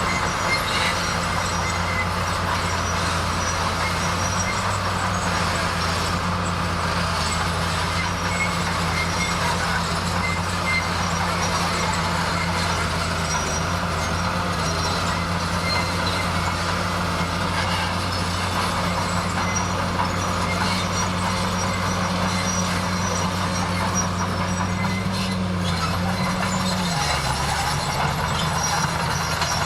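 Bulldozer's diesel engine running steadily, its low note dropping sharply about 27 seconds in as the engine slows.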